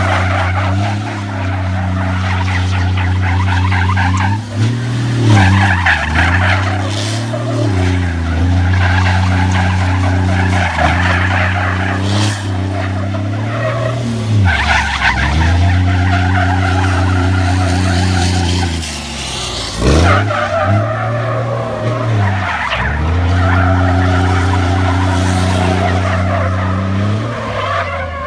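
Scania truck doing donuts: its diesel engine runs hard under load while the tyres squeal and skid without a break. The engine note dips and picks up again several times as the throttle is let off and reapplied.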